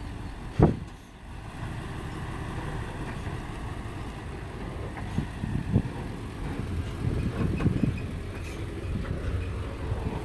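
Isuzu Giga 6x4 dump truck's diesel engine running with a steady low rumble. A sharp loud bang about half a second in, and a few smaller thumps later.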